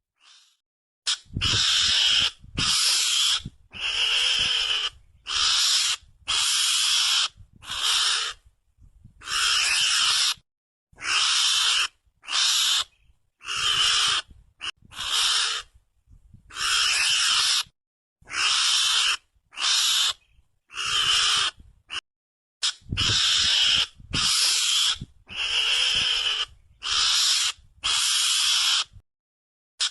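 Mongoose (garangan) lure call: raspy, noisy calls repeated about once a second, each shorter than a second, with short silences between and a few longer pauses.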